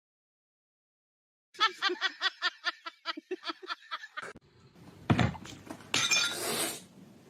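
After a moment of silence, a quick high-pitched laugh runs as a string of short syllables, about five a second. It is followed by a knock and a short burst of rustling noise.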